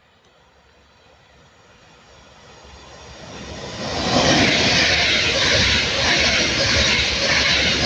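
Class 390 Pendolino electric train passing through without stopping: a rushing noise of wheels and air that swells steadily and reaches full loudness about four seconds in, then holds.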